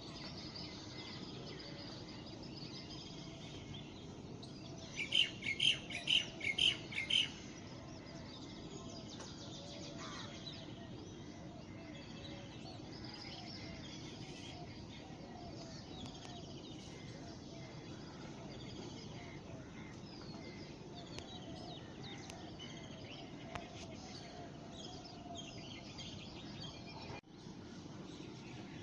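Birds chirping: a steady chorus of many small birds over a low background hum, with one bird close by giving a loud run of about six or seven quick repeated notes about five seconds in.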